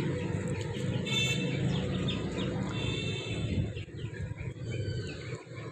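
Chickens and small birds calling: short high chirps about a second in and again near three seconds, over a low rumble of wind on the microphone.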